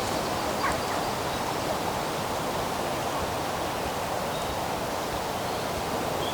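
Steady outdoor rushing noise, even and unbroken, with a faint short chirp about a second in.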